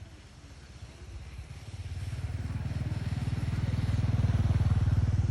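A motor vehicle's engine passing close by, with a low rapid pulsing that grows louder from about two seconds in and is loudest near the end.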